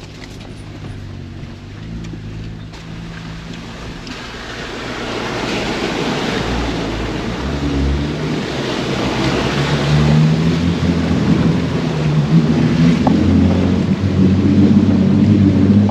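A Jeep Gladiator's engine pulls the truck through a deep mud puddle, with water sloshing and splashing against it from about five seconds in. The engine works harder and louder through the second half as it pushes through the deepest part, nearly getting stuck.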